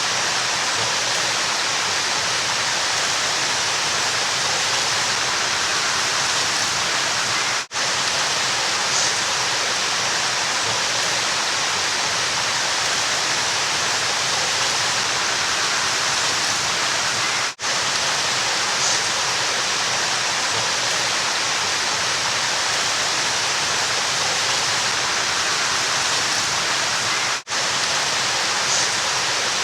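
River water rushing steadily. The sound cuts out for an instant three times, about ten seconds apart, at the seams of a short looped recording.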